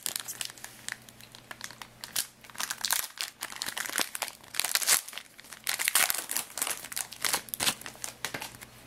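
Wrapper of a hockey trading card pack being torn open and handled, crinkling and crackling in quick, uneven bursts.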